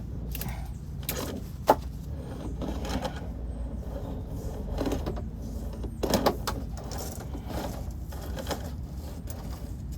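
Scattered knocks and rubbing from a video inspection camera being worked through a lint-clogged dryer vent duct, with one sharp click a little under two seconds in, over a low steady hum.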